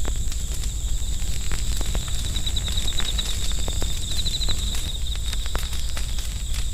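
Campfire crackling, with scattered sharp pops over a steady low rumble, while insects keep up a constant high trill that pulses louder now and then.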